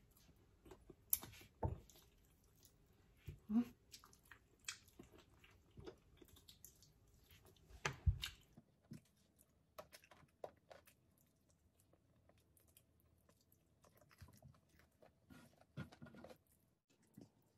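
Close-up chewing and mouth smacking of someone eating rice and fried fish, a run of irregular small wet clicks. There is a louder knock about eight seconds in, and the chewing is quieter in the second half.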